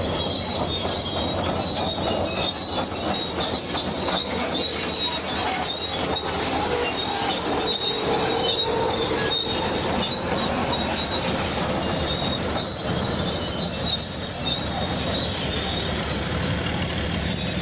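Tracked bulldozer on the move, its steel crawler tracks squealing and clanking continuously over the steady low running of the engine.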